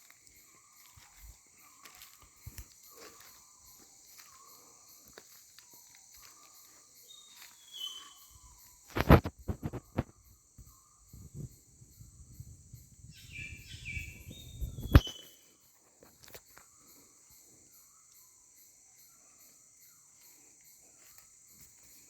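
Steady high drone of forest insects, with short repeated bird calls and a few higher whistled notes. Two loud sharp knocks come about nine and fifteen seconds in, with a low rumble between them.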